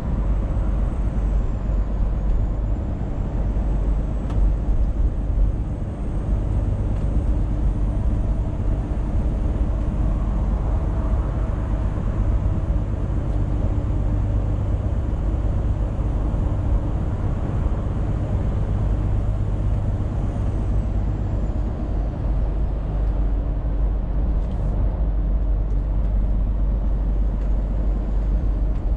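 Scania truck on the move: a steady engine drone with road noise. The engine's tone changes about two-thirds of the way in.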